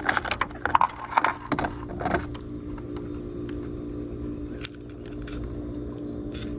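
A quick run of light clinking and rattling for about the first two seconds, then a few scattered clicks, over a steady low hum.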